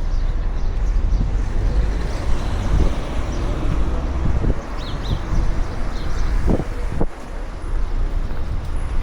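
Street ambience of road traffic going by, a steady low rumble with wind buffeting the microphone. A few short high chirps come through midway, and two sharp knocks come about six and a half and seven seconds in.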